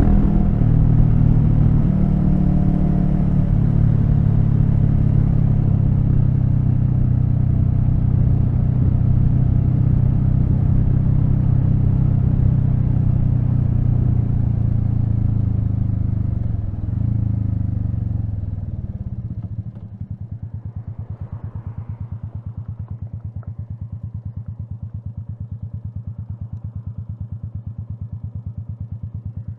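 Royal Enfield Meteor 350's single-cylinder engine running at road speed with road and wind noise, dropping in pitch as the bike slows about two-thirds of the way in. It then settles to a steady, evenly pulsing idle.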